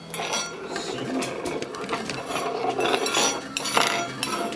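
Tableware clinking and clattering, with several sharp knocks; the loudest comes near the end.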